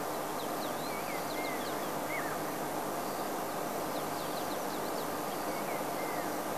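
Small birds giving short, high chirps and whistles, scattered in little clusters over a steady outdoor background hiss.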